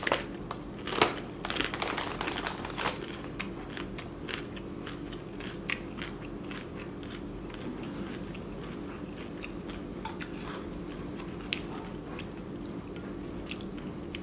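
Close-up crunching and chewing of a crisp corn tostada loaded with ceviche: dense crunches over the first three seconds, the loudest about a second in, then sparser chewing and mouth clicks.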